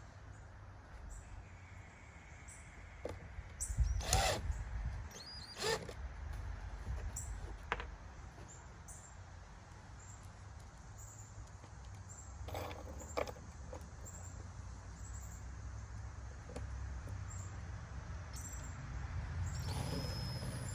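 Scattered clinks and knocks of hands working with a metal chain and screws, a few short sharp ones spread across the stretch, over a low steady rumble.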